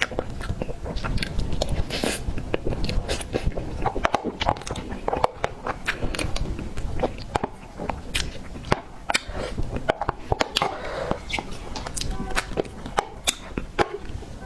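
Close-miked chewing of a soft tiger skin roll cake, with many quick mouth clicks and smacks.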